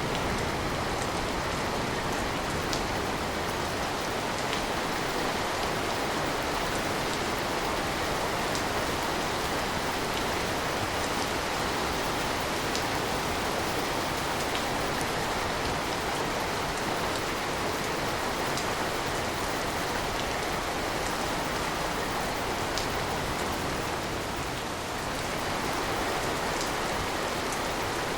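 Steady rain falling, an even hiss with scattered individual drop ticks, easing slightly for a moment near the end.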